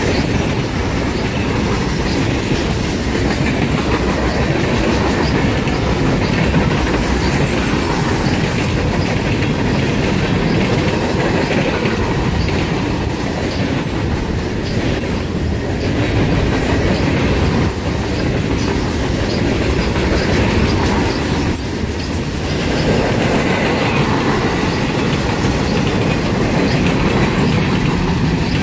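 Freight cars of a CSX train rolling past close by: a steady rumble of steel wheels on the rails, with short high-pitched squeaks from the wheels and track scattered throughout.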